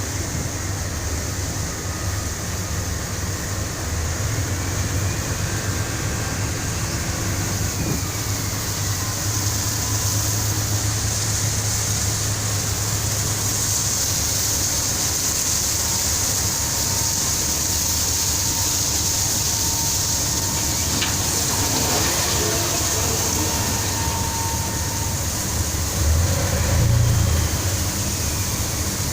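Steady low engine rumble with a constant hiss aboard a tanker ship during berthing, with faint drifting machine tones and a short louder low rumble near the end.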